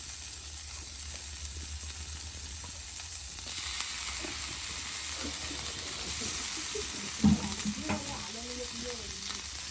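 Food sizzling in a hot pan over a wood fire, a steady hiss that grows louder about three and a half seconds in, with a single knock a little after seven seconds.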